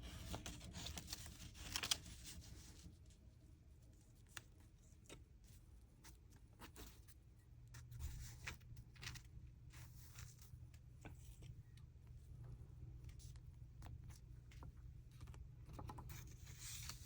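Faint handling of paper: a short tearing or peeling rustle in the first two seconds, then scattered light scrapes and taps, over a low steady hum.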